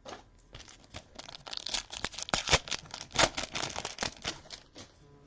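Trading cards and their pack wrapper crinkling and rustling as they are handled, a dense run of crackles with a few louder ones about two and a half and three seconds in.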